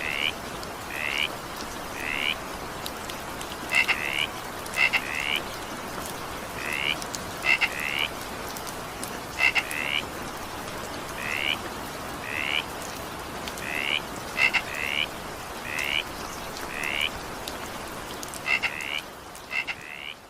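Frogs croaking over steady rain. The short calls come about once a second, often in pairs, with a few sharper clicking calls among them.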